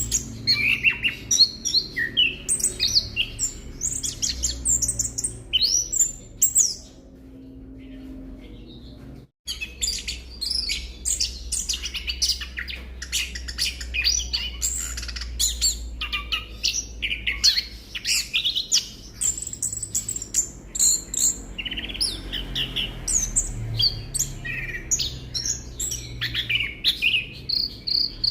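Orange-headed thrush song: a rapid, varied run of chirps and whistled phrases. It breaks off about seven seconds in, drops out briefly, then resumes with a low steady hum underneath.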